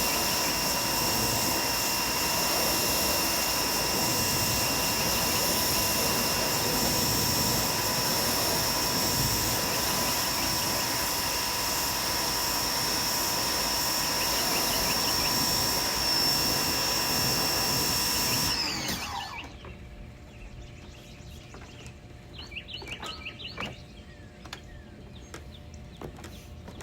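Dewalt 2100 PSI electric pressure washer running with a steady high whine over the hiss of its spray. About eighteen seconds in it shuts off and the whine falls away, leaving birds chirping.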